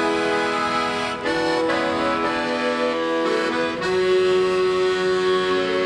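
Instrumental music: accordion playing sustained chords that change about a second in and again near the four-second mark.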